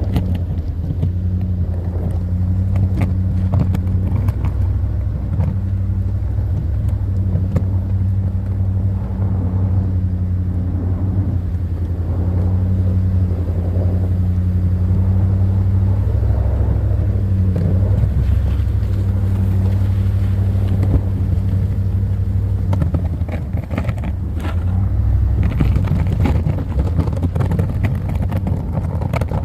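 GMC pickup truck running and moving, a steady low drone from the engine and drivetrain with small changes in pitch.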